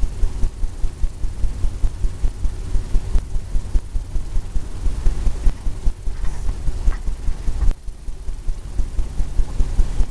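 Paintbrush working on a stretched canvas: a quick, even run of dull low thumps, about four or five a second, with a brief pause just before the end.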